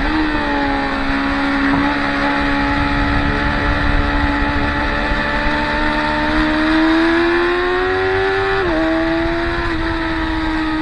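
Sport motorcycles running hard on a race circuit, a high-revving engine note holding and slowly climbing in pitch, then dropping suddenly twice near the end.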